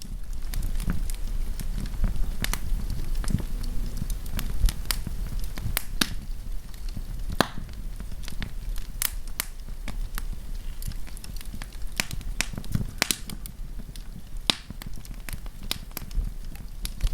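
Wood campfire crackling: irregular sharp pops and snaps of burning wood, several a second with a few louder ones, over a steady low rumble.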